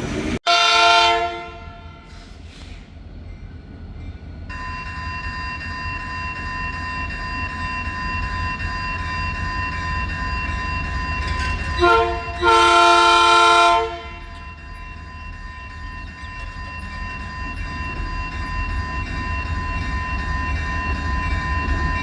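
Diesel freight locomotive's air horn sounding for a level crossing: one blast right at the start, then a short toot and a longer blast about twelve seconds in, over the steady low rumble of the passing train. A steady high tone sets in about four seconds in and holds to the end.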